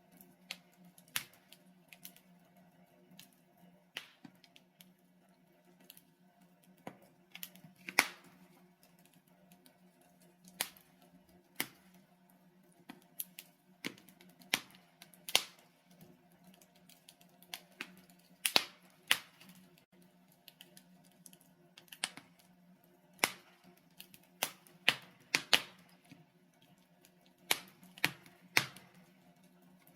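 Wood logs burning in a fireplace, crackling with irregular sharp snaps and pops, a few louder ones standing out, over a faint steady low hum.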